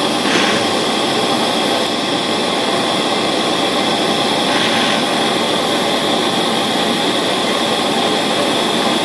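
Soldering torch flame running steadily with a constant hiss, heating silver solder on a spectacle frame's hinge until it melts.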